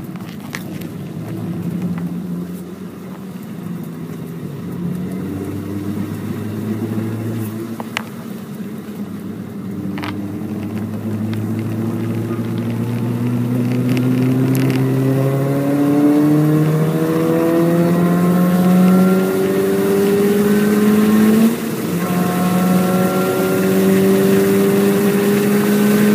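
MINI Cooper S (R53) supercharged four-cylinder engine accelerating hard on track, its pitch rising in long pulls and dropping sharply at an upshift late on. A few sharp clicks break through.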